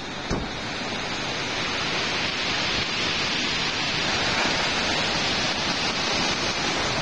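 Typhoon storm: a steady rushing of wind and rain, swelling slightly a couple of seconds in, with one short knock just after the start.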